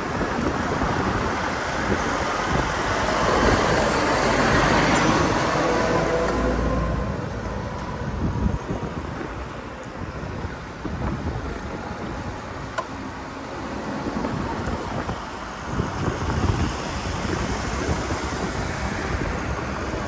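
Wind rushing over the microphone during a bicycle ride, with road traffic. A louder swell, like a motor vehicle going by, comes about three to six seconds in.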